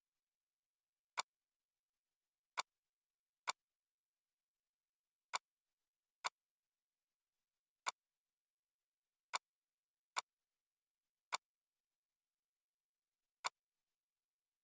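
Computer mouse clicking: ten sharp single clicks at uneven intervals, about one to two seconds apart, with dead silence between them.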